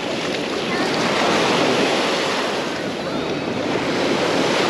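Small Mediterranean waves breaking and washing up the sand: a steady surf wash.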